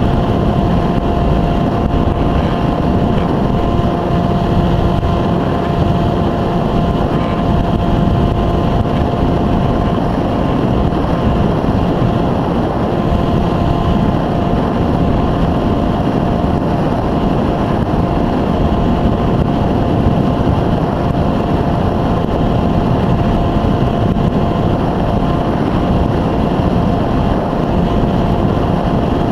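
EasyStar 2 RC plane's electric pusher motor and propeller running at a steady pitch, with loud wind rush, heard through the plane's onboard camera microphone.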